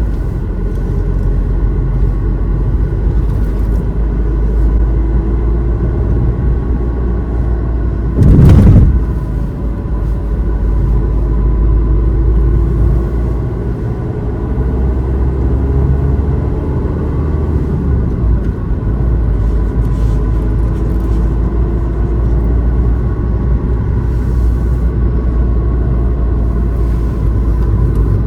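Car driving along a winding road: steady engine and road rumble, with the engine note rising and falling. A brief loud thump about eight seconds in.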